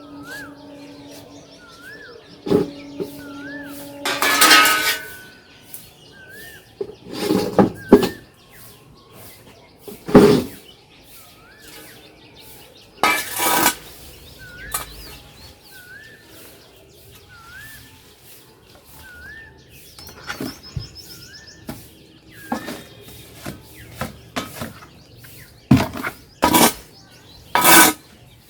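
Irregular loud knocks, clatters and scrapes from handling pots and soil during repotting, several of them sharp and strong. Behind them a bird repeats a short rising-falling chirp about once a second.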